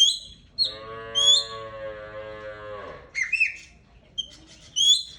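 Aviary birds giving sharp, rising chirps again and again, about six times. Between about one and three seconds in there is a long, low, steady call that drops slightly at its end.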